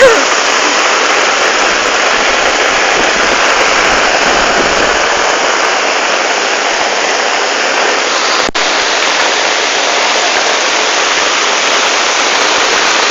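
Loud, steady rush of fast-flowing floodwater, a torrent running over the ground, with one momentary break about eight and a half seconds in.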